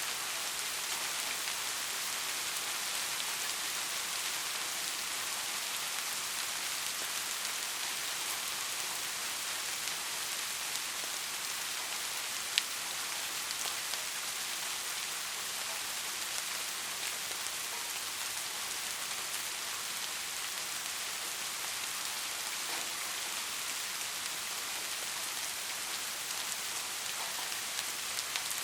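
Steady rain falling on a surface, an even hiss of dense drops with faint individual drop taps, and one sharp louder tick about halfway through.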